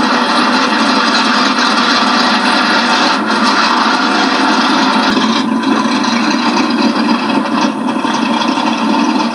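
Modified 1968 Mercury Cougar 302 V8 running as the car drives, recorded loud and harsh with almost no bass.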